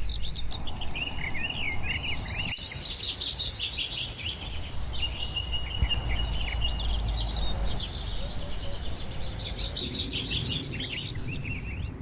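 Several songbirds singing together, a steady chorus of overlapping chirps and trills, over a low steady rumble.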